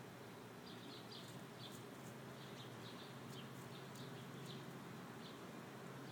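Faint, short chirps of small birds, scattered irregularly through, over a steady low hum and hiss.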